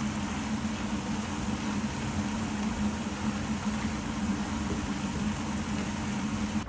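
A steady mechanical hum with an even hiss, like a fan or small appliance motor running, unchanging throughout.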